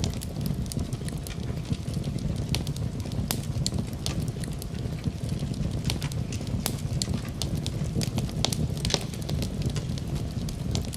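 Wood fire burning in a fireplace: a steady low rumble of the flames with frequent sharp crackles and pops, several a second at irregular intervals.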